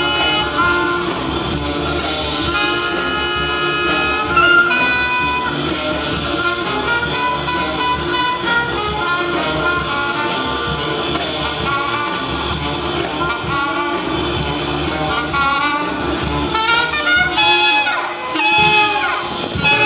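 Live jazz band playing, with trumpet, saxophones and trombone carrying the melody in held notes and quick runs over piano, bass and drums.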